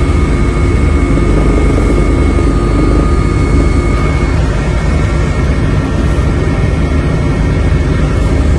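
Aircraft engine noise, loud and steady, with a constant whine running through it.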